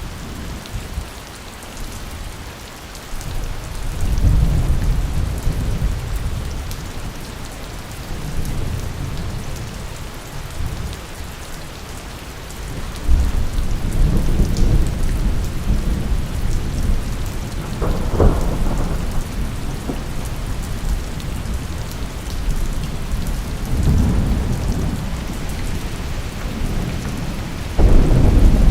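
Steady heavy rain with rolls of thunder: low rumbles swell and fade several times, a sharper crack about 18 seconds in, and the loudest roll near the end.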